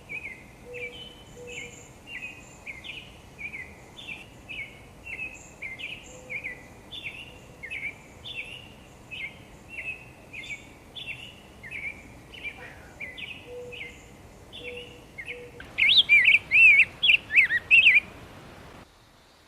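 A bird calling over and over, short slurred notes at about one and a half a second. Near the end comes a louder burst of quick, twittering song, and then the calling stops.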